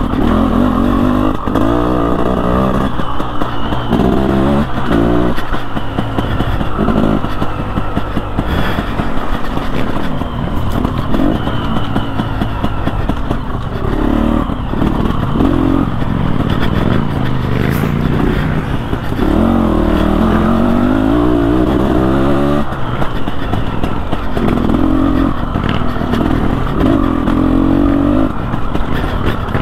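KTM Freeride 250R two-stroke single-cylinder engine being ridden off-road, its revs rising and falling again and again as the throttle is worked.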